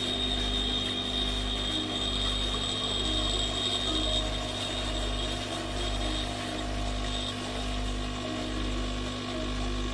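De'Longhi Dedica Style espresso machine's pump humming and buzzing steadily while pumping water through the coffee during a brew.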